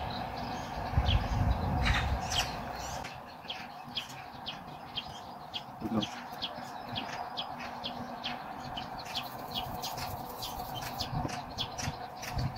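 Small birds chirping repeatedly in the background, with short sharp calls scattered throughout. A low rumble runs under the first few seconds.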